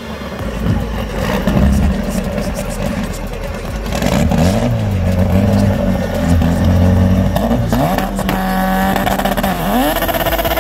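Turbocharged Honda Civic drag car's engine revving repeatedly, the pitch dropping and climbing several times, then held steady for about two seconds before climbing again near the end.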